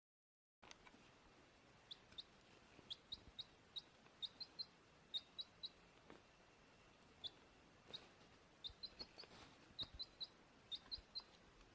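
A small bird chirping: short, high, sharp chirps, some single and some in quick runs of two or three. It starts just under a second in.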